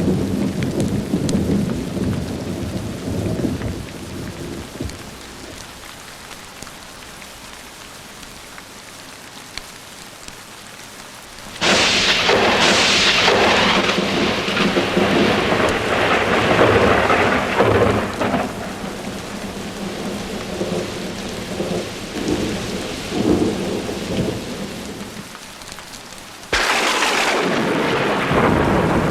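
Thunderstorm with steady rain. A low rumble of thunder dies away over the first few seconds. A sudden sharp thunderclap about twelve seconds in rolls and rumbles for several seconds, and another sudden clap breaks near the end.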